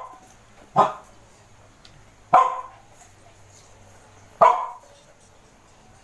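A dog barking: three single loud barks, spaced about one and a half to two seconds apart.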